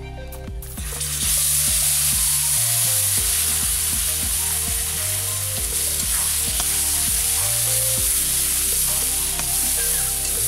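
Chopped bottle gourd greens dropped into hot oil in a kadai, setting off a loud, steady sizzle that begins about a second in. A metal spatula stirs the greens through the oil, with light ticks against the pan.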